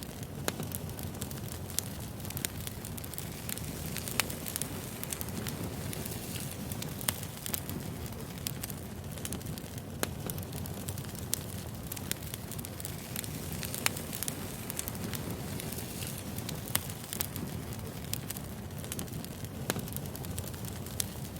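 Burning firewood crackling: a steady low rumble of flames with irregular sharp pops and snaps, a few louder pops every few seconds.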